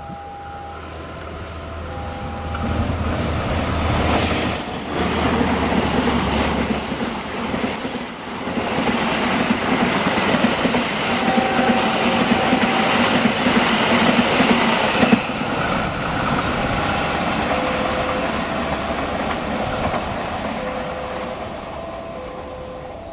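A train passing close by: a low locomotive engine rumble at first, then wheels clattering over the rails, building to a loud peak in the middle and fading near the end. Throughout, a short two-note chime repeats over and over, typical of a level-crossing alarm.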